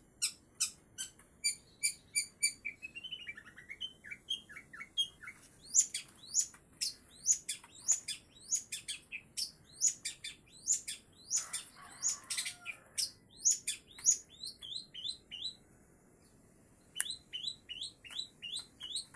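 A songbird chirping: a long run of short, sharp, falling chirps at about two a second, with a brief pause near the end before the chirps start again.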